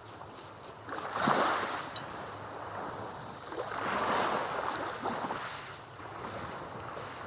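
Small waves breaking and washing up a black volcanic sand beach: two surges of surf, a short one about a second in and a longer one around the middle.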